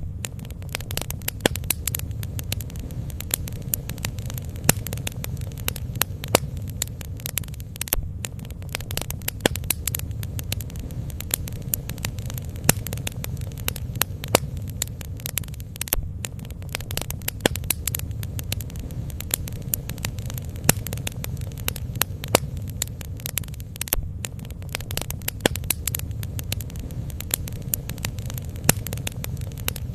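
Bonfire burning, with frequent sharp crackles and pops over a steady low rumble.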